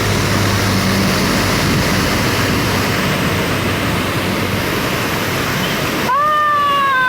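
Heavy rain pouring down, a steady loud rushing hiss. About six seconds in, a loud held high tone sounds over it for about a second.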